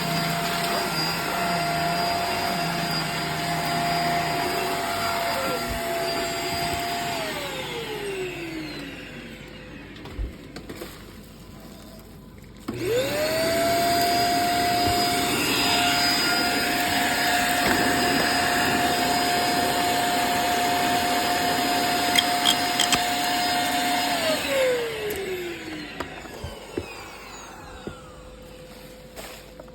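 Hoover React cordless stick vacuum running with a steady motor whine. It is switched off about seven seconds in and spins down, starts again with a rising whine a few seconds later, and is switched off and spins down once more near the end.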